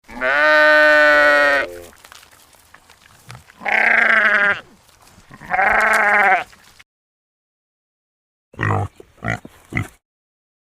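Sheep bleating: one long, wavering bleat, then two shorter ones. Near the end a pig grunts three times in quick succession.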